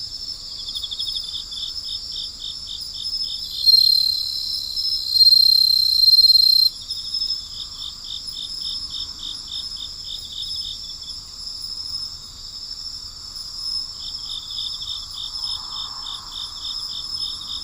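Night chorus of crickets and other insects: a steady high trill underneath, with a cricket chirping in bouts of rapid pulses, about five a second. From about four to seven seconds in, a louder steady high buzz joins and then cuts off suddenly.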